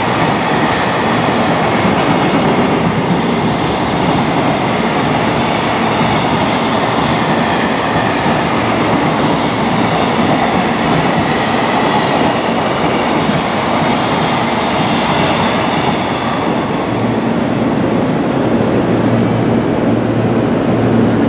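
Long container freight train running past on the rails, a steady heavy rumble of wheels. Near the end a steady low hum joins in.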